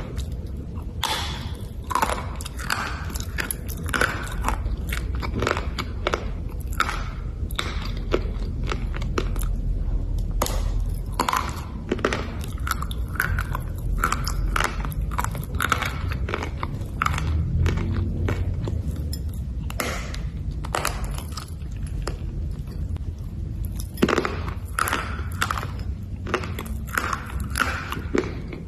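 Biting and chewing hard pieces of black slate: repeated sharp, crisp crunches and crackles at an irregular pace.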